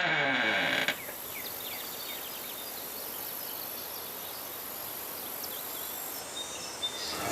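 A louder sliding tone cuts off about a second in, leaving a recorded nature ambience: small high chirps of insects over a steady hiss. Plucked-string music begins at the very end.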